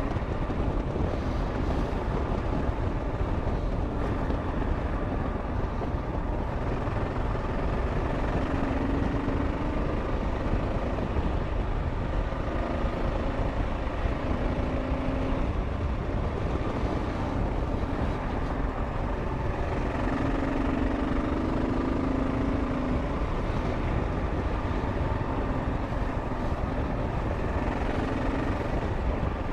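Kawasaki KLR 650 single-cylinder dual-sport motorcycle running steadily at slow riding pace, heard from the rider's helmet with wind rushing over the microphone; a faint engine hum swells and fades a few times.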